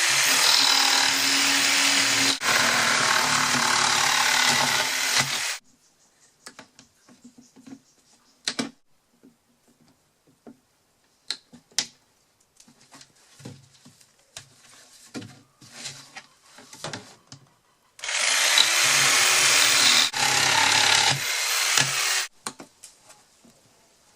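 A handheld power tool cutting into a plastic laundry detergent bucket in two runs, about five seconds near the start and about four seconds later on, each starting with a rising motor whine. Between the runs, quiet clicks and knocks of the plastic being handled.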